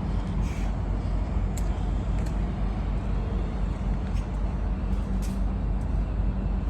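Steady low rumble of vehicle engines, with a few faint clicks.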